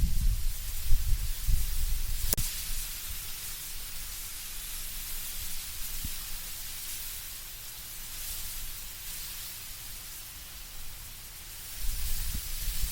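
Wind blowing through trees, the leaves rustling as a steady hiss. Low gusts rumble at the start and again near the end, and there is a single sharp click about two seconds in.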